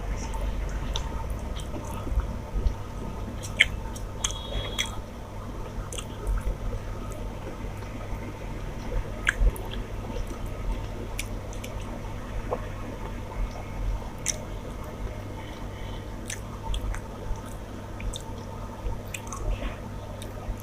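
A person chewing and eating a rice-and-curry meal close to the microphone: wet squishy mouth sounds with irregular small smacks and clicks.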